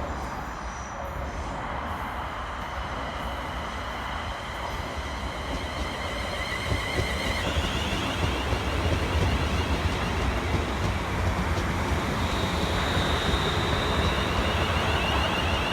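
A train running through the station, its noise building steadily. A rumble of wheels on rail carries a few steady high tones that change pitch about halfway through.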